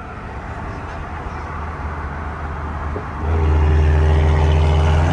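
Turbocharged B58 inline-six car engine pulling hard at highway speed, a steady drone that builds and then jumps much louder about three seconds in as the throttle is opened further.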